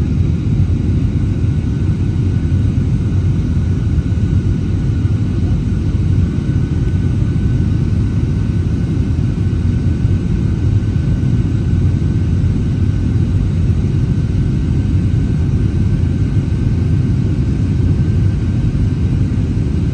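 Steady, loud cabin roar inside an Airbus A321neo, its CFM LEAP-1A engines and airflow heard as a deep rumble with a faint thin whine over it.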